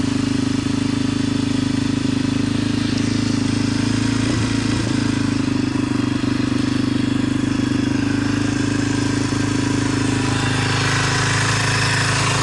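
2005 Yamaha TT-R125L's single-cylinder four-stroke engine idling steadily after a cold start, still warming up.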